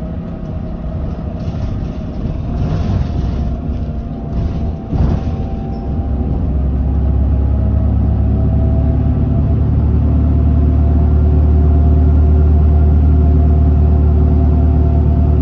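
Interior running sound of a Hino Blue Ribbon city bus with its four-cylinder turbo-diesel: engine and road rumble with a few short hissy noises in the first half, then the low engine drone swells about six seconds in and holds steady and loud as the bus pulls along.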